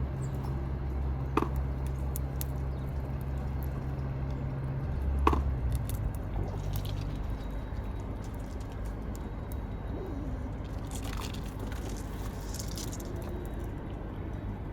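A low, steady engine hum that stops about six seconds in, with two sharp clicks and scattered small ticks from the feeder, and a few bursts of rustling later on.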